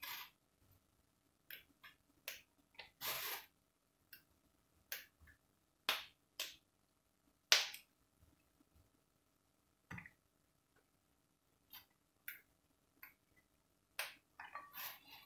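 Fresh green beans being snapped by hand: more than a dozen short, sharp snaps at irregular intervals as the ends are broken off and the pods are broken into small pieces.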